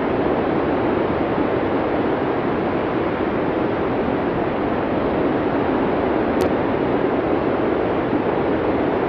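Blizzard wind ambience: a steady, even rushing noise with no gusts or changes, with a single faint click about six seconds in.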